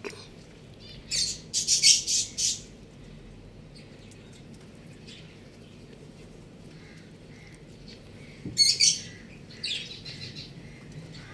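Birds chirping and squawking in short high-pitched bursts: a cluster of calls about a second in and another near the end, over a low steady background hum.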